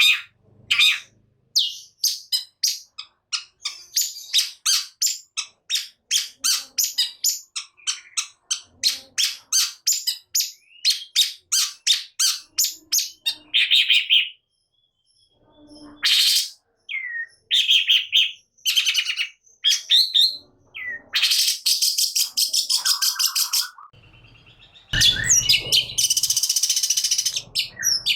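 Long-tailed shrike (cendet) calling hard: a long rapid series of short, sharp, repeated notes, about three or four a second, then, after a short break, harsher buzzy and scratchy calls that grow loud and rough near the end.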